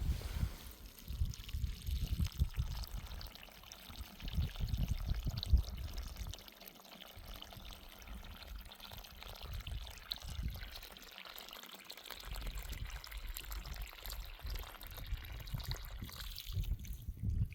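Irrigation water pouring and trickling steadily, with gusty low rumbling buffets in the first few seconds and again near the end.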